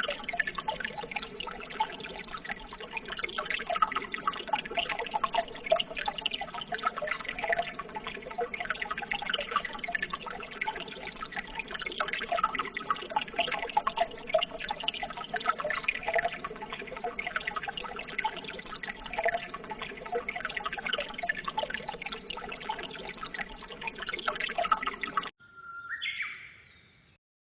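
Running water, a continuous babbling, splashing flow at a steady level. About 25 seconds in it cuts off abruptly, and a brief tone that steps up in pitch sounds and fades.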